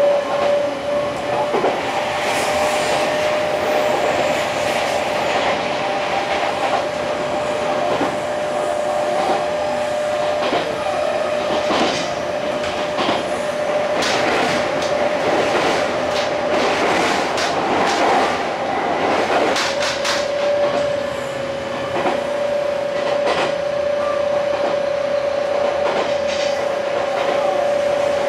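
Running noise of an Odakyu 60000 series MSE Romance Car heard from the deck between cars: a steady rumble with a faint constant tone and wheels clicking over rail joints. A cluster of sharp rattles and clacks comes in the middle, the kind of rattle the recordist puts down to the car's sales-counter shutter.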